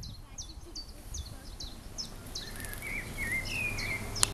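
Songbirds singing: a series of short, high, falling notes, then a lower warbling phrase, over a faint low rumble. A sharp click sounds just before the end.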